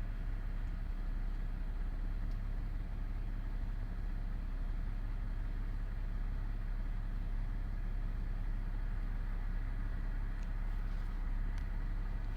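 Steady low rumble of a car running, with a few faint ticks.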